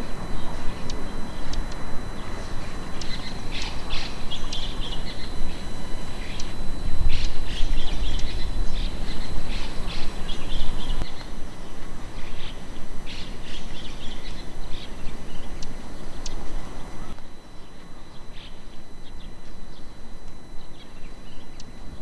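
Wild birds chirping in clusters of short, high notes with brief gaps, over a steady low outdoor rumble. The background rumble drops quieter about seventeen seconds in.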